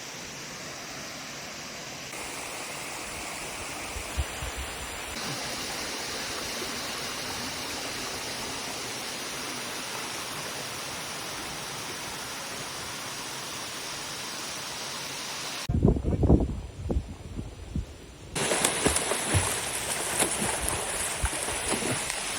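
Waterfall rushing in a steady, even wash of water noise. About 16 s in the sound shifts abruptly to a louder, uneven rush with low thumps.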